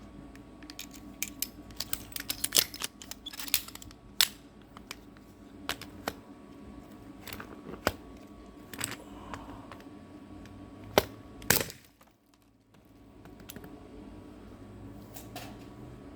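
An irregular series of sharp clicks, clacks and clinks of small hard objects, with a cluster of louder knocks early on and two loud single knocks about eleven seconds in.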